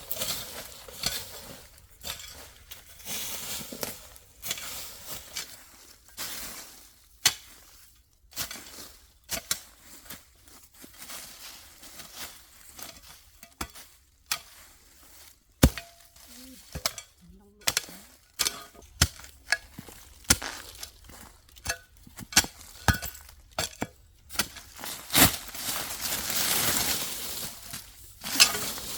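Irregular clicks, knocks and clinks of small hard objects being handled, with stretches of hiss like frying or sizzling.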